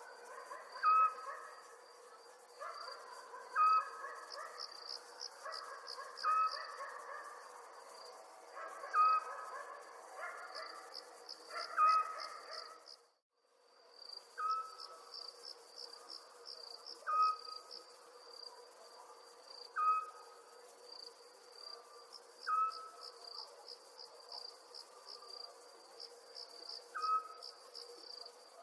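Night ambience of crickets chirping in pulsed high trills over a steady high drone, with a short, clear call repeating about every three seconds. The sound drops out briefly about 13 seconds in and then resumes.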